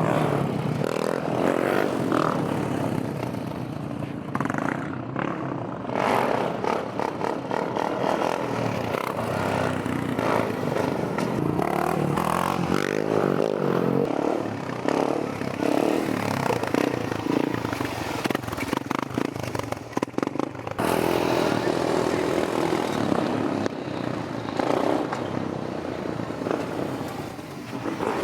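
Motorcycle engines running, mixed into a loud, steady rushing noise with no clear engine pitch.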